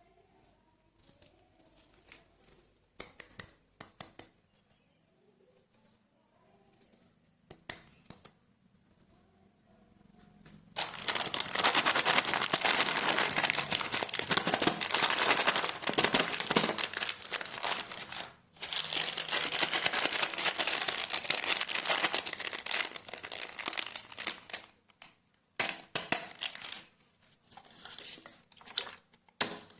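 Candy or chocolate wrapper being crinkled while it is unwrapped. There are scattered light crinkles for about ten seconds, then loud, continuous crinkling for about a dozen seconds with a short break in the middle, then scattered crinkles again near the end.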